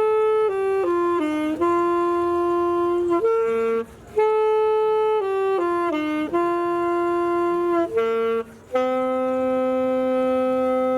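A solo wind instrument playing a slow melody, one held note at a time, with short breaks between phrases.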